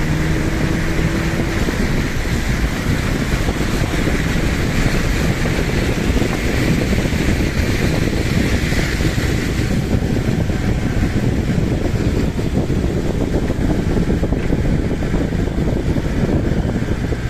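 Floodwater rushing down a swollen river, loud and steady, its hiss easing about ten seconds in.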